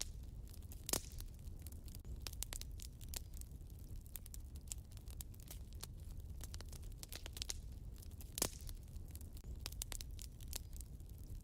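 Wood fire in a fireplace crackling, with many small irregular snaps and two sharper pops, one about a second in and one later on, over a low steady rumble.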